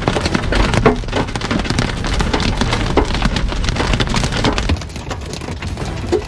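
Heavy rain mixed with hail pelting a car's roof and windshield, heard from inside the cabin: a dense, steady din of many small knocks.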